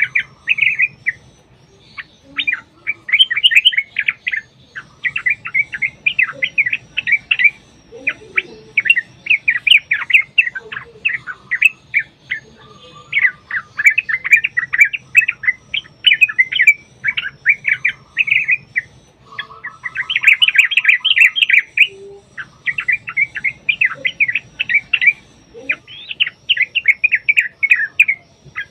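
Yellow-vented bulbul (trucuk) singing long, rapid chattering phrases of bubbling chirps, one after another with short pauses between them.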